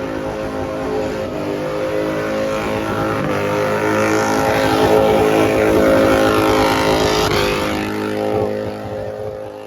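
Car engine revving hard at high rpm. It grows steadily louder to a peak about five to six seconds in, then fades away near the end.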